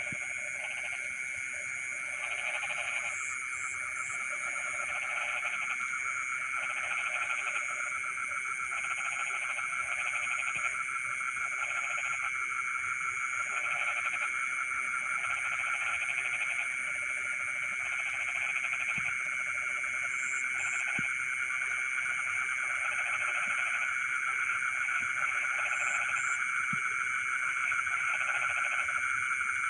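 Night chorus of frogs in a rice field, a dense continuous trilling with a steady high insect-like buzz above it. Lower frog calls come in short repeated bouts, roughly once a second.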